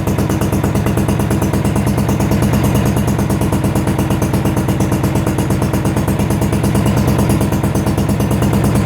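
Yard-Man lawn tractor engine running steadily, still warming up after a cold start.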